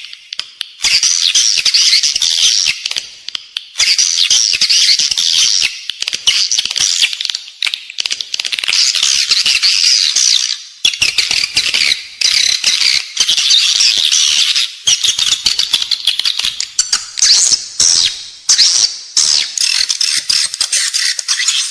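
Edible-nest swiftlet calls: a dense, high-pitched twittering chatter that comes in phrases of a few seconds with short breaks between them. This is the 'inside the building' swiftlet call played in swiftlet houses to lure the birds in to roost and nest.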